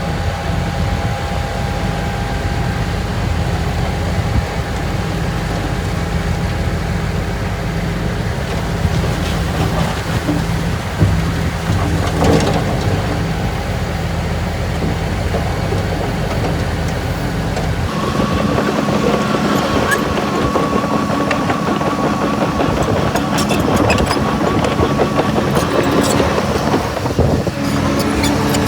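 Heavy earthmoving machinery running: a diesel engine's low, steady hum. About two-thirds of the way through the sound changes abruptly to a higher steady whine, with scattered clanks and clicks near the end.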